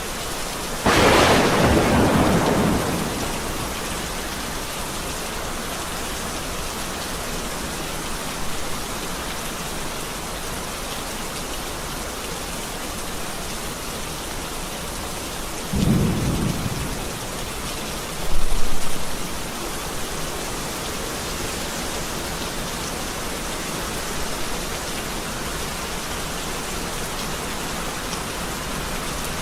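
Steady rain falling through the whole stretch, with a sharp, loud thunderclap about a second in that rolls off over a couple of seconds, then lower rumbles of thunder a little past the middle.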